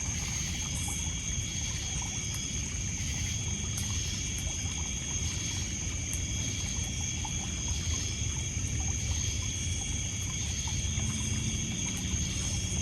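A steady, high-pitched chorus of crickets and other night insects over water lapping on a pebble shore. There are a few faint crackles from a campfire.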